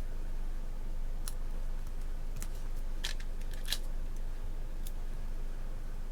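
Planner stickers and paper being handled on a desk: about six short, crisp clicks and rustles, the loudest a little after three seconds and just before four seconds in, over a steady low hum.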